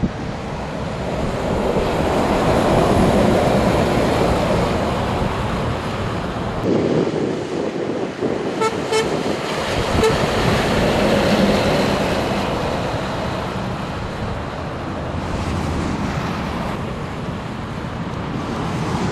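Road traffic running past, with a vehicle horn giving two short toots about halfway through.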